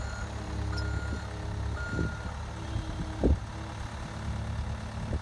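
Caterpillar 259B skid steer's diesel engine running steadily, with its back-up alarm beeping three times in the first couple of seconds. A single knock comes about three seconds in.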